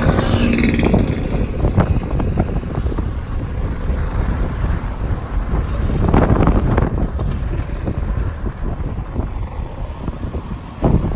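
Road vehicles passing and running, with wind buffeting the microphone as a low rumble; a louder vehicle passes about six seconds in.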